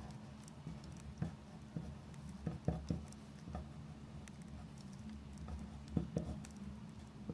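Crackling bonfire: irregular small pops and snaps of uneven loudness over a steady low hum, a few louder pops about a second in, near the middle and near the end.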